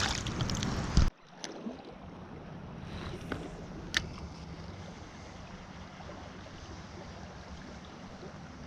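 Splashing water that ends abruptly in a sharp knock about a second in, then steady flowing river water with a few light clicks.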